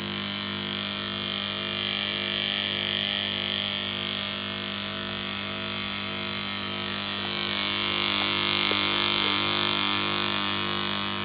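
Two coupled electric motors, one driven as a generator, running steadily at full speed: a constant electrical hum with a high whine above it, swelling slightly in loudness a little past the middle.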